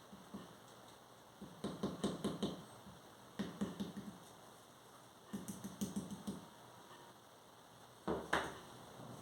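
Mason's trowel tapping bricks or facing tiles being set in mortar: three quick runs of light taps, then a single sharper knock near the end.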